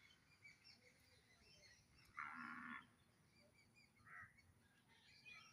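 An animal's call, about half a second long, a little over two seconds in, with a shorter call near four seconds, over faint scattered bird chirps.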